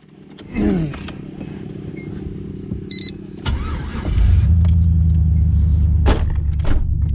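A car engine running with a steady low hum that gets much louder about three and a half seconds in and then holds at a loud, even idle.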